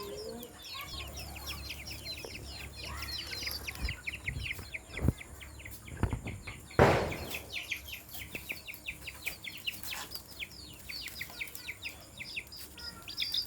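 Continuous rapid, high-pitched chirping of birds, many calls a second. A few dull knocks come about midway, then a single loud sharp knock with a brief rattle, the loudest sound.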